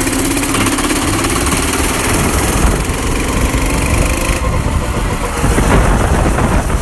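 Truck engine running loudly.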